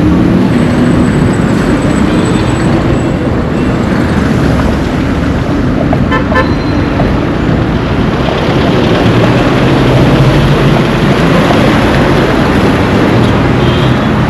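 Road traffic: vehicle engines running and passing close by, a continuous heavy rumble, with a short horn toot about six seconds in.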